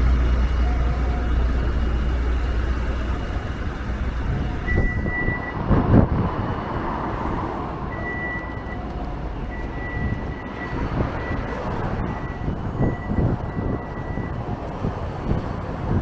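Street traffic: a heavy vehicle's low engine drone fades about three seconds in. After that a high-pitched steady beep sounds on and off, like a vehicle's reversing alarm, over wind buffeting the microphone.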